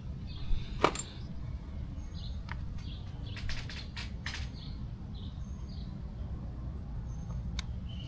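A few sharp clicks and knocks of tools being handled, the loudest near the start, over a low steady rumble, with small birds chirping faintly in the background.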